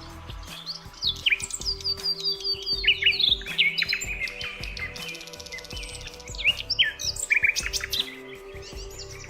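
Songbirds chirping and singing: many quick, high, sweeping notes that overlap.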